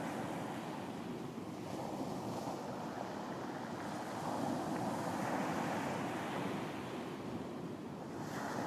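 Ocean surf washing onto a beach, swelling and easing as the waves come in, with wind.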